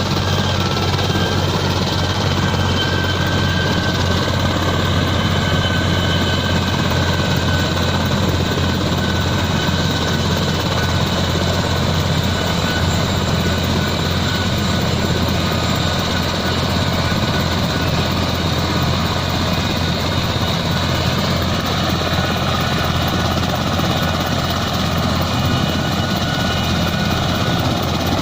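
Passenger helicopter's engine and rotor running steadily: an even low drone with a high steady whine over it.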